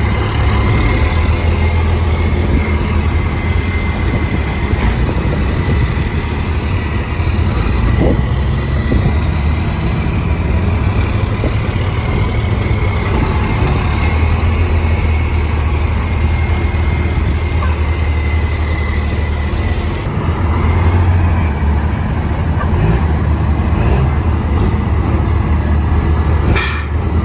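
Racing trucks' big turbo diesel engines running with a steady low rumble. A single sharp crack comes near the end.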